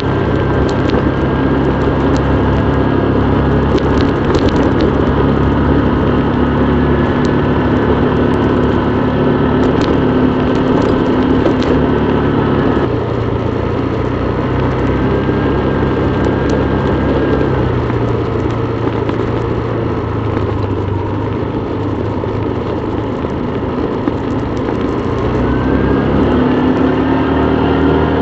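Motorbike engine running while riding, its pitch shifting with speed: it drops about halfway through, sinks further, then rises again near the end.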